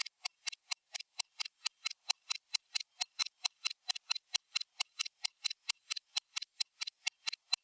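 Stopwatch ticking sound effect: a steady run of sharp, even clicks, about five a second.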